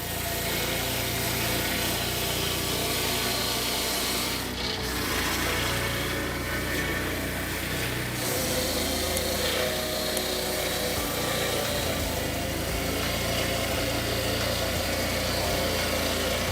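A powered saw cutting steadily through a log, with a continuous sawing noise.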